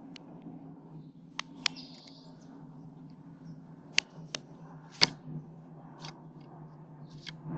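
A bird pecking at a feeder: about seven sharp, irregular taps, over a faint steady low hum.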